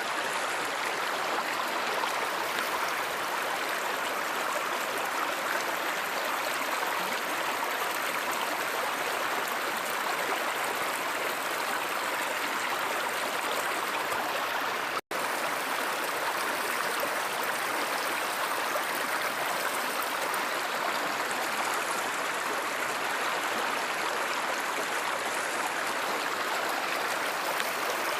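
Steady rushing of a flowing river or stream. It cuts out for an instant about halfway through.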